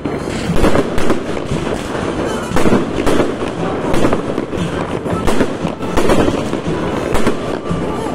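Aerial fireworks bursting in quick succession: a dense, continuous run of loud bangs with no pause.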